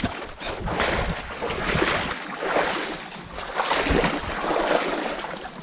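Seawater sloshing and splashing around legs wading through shallow water, in surges about once a second.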